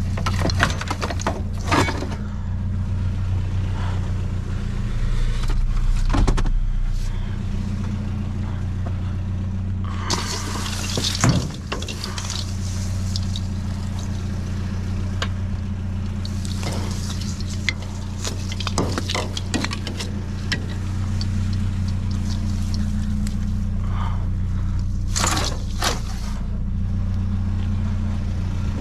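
Vehicle engine and road noise heard from inside the cab, a steady low hum. Loose items rattle and clatter now and then, most clearly about ten seconds in and again near the end.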